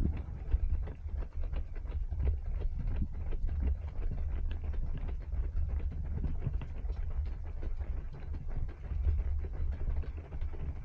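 Runners' footsteps: a quick, steady patter of footfalls over a steady low rumble.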